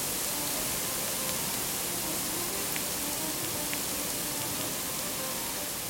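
Heavy rain pelting the sea surface, heard underwater through a hydrophone as a steady, dense hiss, with a few faint isolated clicks.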